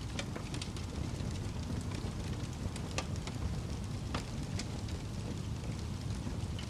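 Wood fire burning in a fireplace: a steady low rumble of flame with irregular sharp crackles and pops scattered through it.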